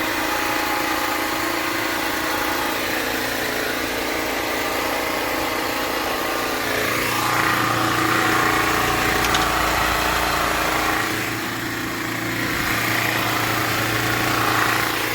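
Portable generator running steadily, with a louder hiss swelling up twice, about seven and twelve seconds in.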